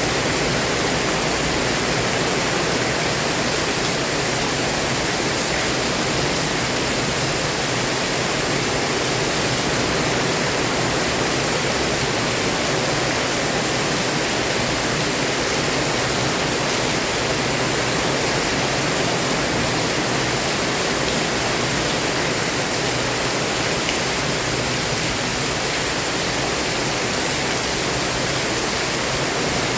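Heavy rain pouring down, a dense, steady hiss that does not change.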